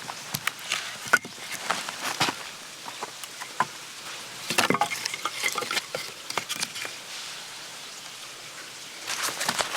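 Dry leaves and twigs crunching and rustling in three short spells, with sharp cracks and quieter gaps between.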